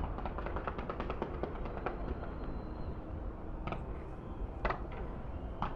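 Distant fireworks: a rapid crackling of many small bursts for the first couple of seconds, then three single bangs about a second apart, over a steady low rumble.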